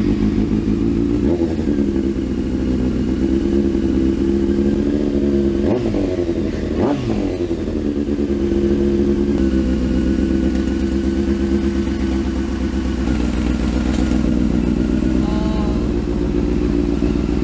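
Motorcycle engine idling loudly through a BlackWidow aftermarket exhaust with its baffle removed. It gives two short revs about six and seven seconds in.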